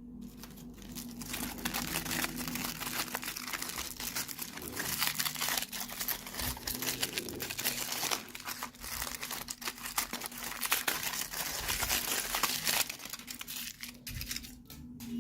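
Crinkly packaging being handled and torn open: dense crinkling and crackling that stops about thirteen seconds in, with a few last crinkles near the end.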